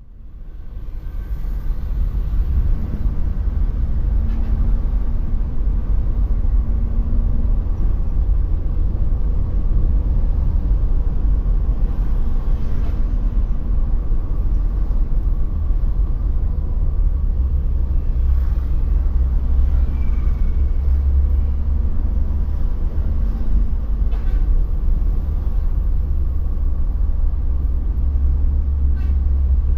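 A bus running on the road: a steady low rumble of engine and road noise that fades in at the start and holds throughout.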